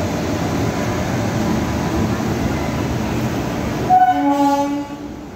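Electric locomotive hauling a passenger train rumbling past at low speed, then its horn sounding once: a short high note and then a lower blast lasting about a second.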